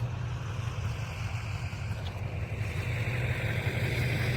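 An engine running steadily at idle, a low even hum, with a hiss over it that grows a little louder in the second half.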